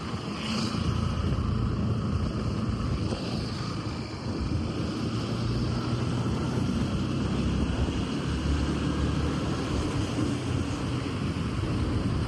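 A vehicle driving along a road: a steady low engine and road rumble, with wind noise on the microphone. There is a short higher-pitched sound about half a second in.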